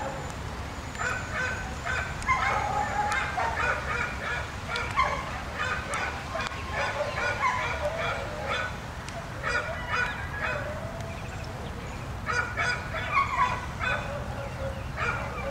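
Repeated short honking animal calls in bunches with brief pauses, over a steady low rumble.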